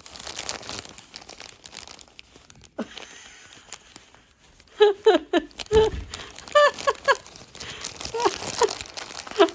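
Crinkling and rustling of paper or plastic packaging being handled. From about halfway there is a run of short, high squeaks, each falling in pitch.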